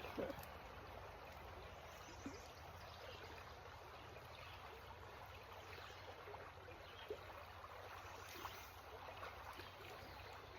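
Faint, steady rush and trickle of a creek's flowing water.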